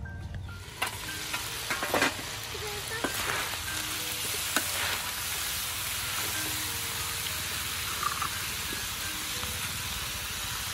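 Meat sizzling as it fries in a steel wok over a wood fire, the hiss building up about a second in. A metal spatula stirs it, scraping and knocking against the pan a few times.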